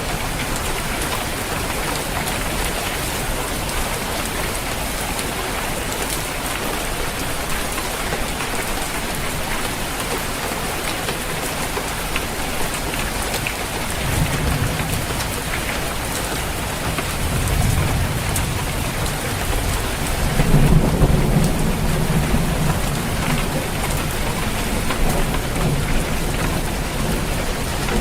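Steady rain falling on a roof, with thunder rumbling in the distance about halfway through and a longer, louder roll of thunder from about two-thirds of the way in.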